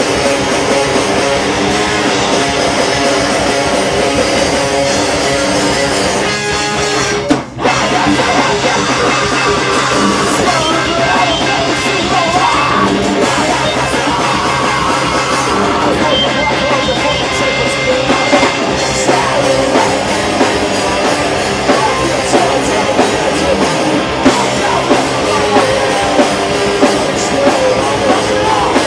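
Metalcore band playing loud live: distorted guitars and a drum kit with vocals. The music stops sharply for a split second about seven seconds in, then comes straight back.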